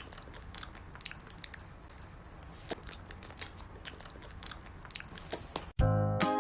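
Crunchy chewing: many irregular small crunches and clicks over a low steady hum. Music with clear notes cuts in near the end.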